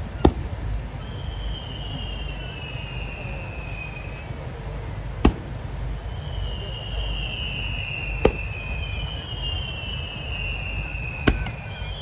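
Aerial fireworks shells bursting in single sharp bangs about every three seconds, four times, over a steady low rumble. Between the bangs come long whistling tones that slide slowly downward, and a thin high steady tone like crickets runs underneath.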